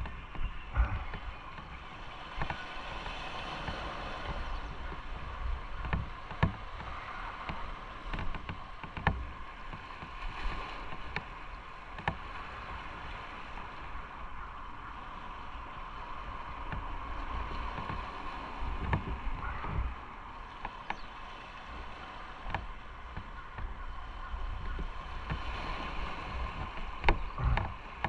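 Motorcycle riding on a rain-wet road: steady engine and tyre noise with a watery hiss, and many small sharp knocks throughout.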